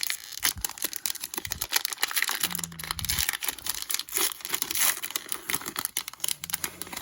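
A baseball card pack's wrapper crinkling and tearing as it is ripped open and handled, a dense run of crackles.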